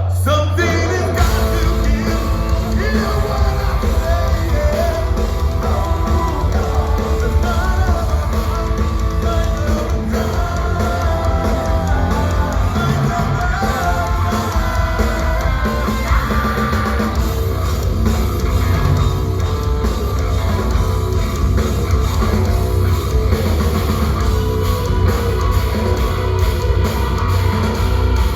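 Heavy metal band playing live at full volume: distorted electric guitar, bass and pounding drums.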